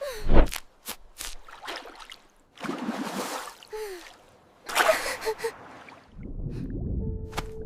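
A run of cartoon sound effects: a falling sweep with a heavy thump at the start, scattered clicks and two noisy rushes. A low rumble comes in near the end with a steady held tone over it.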